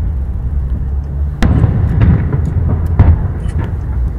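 Aerial firework shells bursting: a sharp boom about a second and a half in and a louder one about a second and a half later, with smaller pops between and after, over a low steady rumble.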